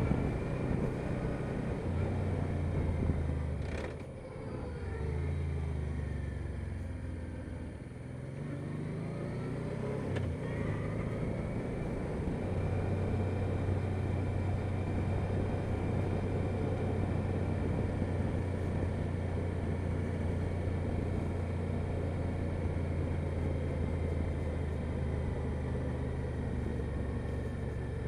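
Honda Deauville NT650V motorcycle's V-twin engine running under way. The engine note dips and shifts in pitch about four seconds in and again around eight seconds, then holds steady for the rest.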